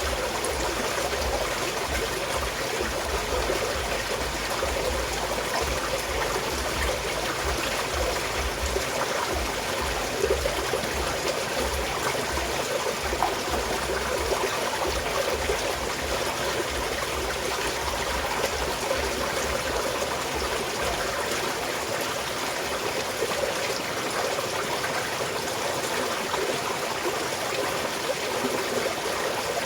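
Small stream of water flowing steadily.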